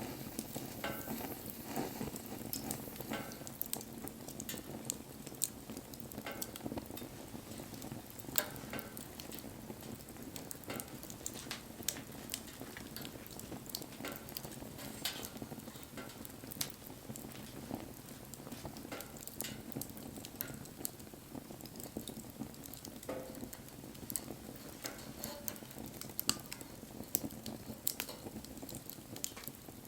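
Wood fire burning: a steady rush of flames with irregular sharp crackles and pops from the burning wood, and now and then a brief hiss.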